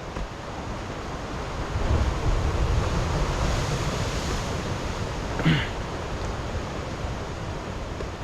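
Steady outdoor rushing noise of wind and water, with wind buffeting the microphone. It swells about two seconds in, and a short pitched call sounds once about five and a half seconds in.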